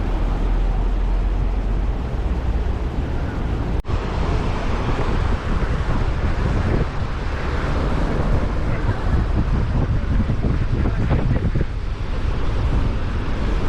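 River water rushing in a steady, noisy wash, with wind rumbling on the microphone. A sudden cut about four seconds in switches to a slightly different take of the same kind of sound.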